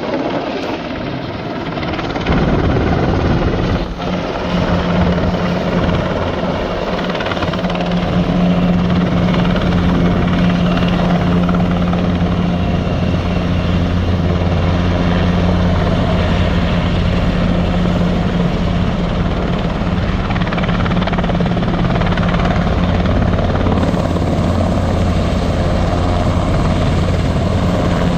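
Wildfire-fighting helicopter running, a continuous loud roar with a steady low hum beneath it; it grows louder about two seconds in and then holds steady.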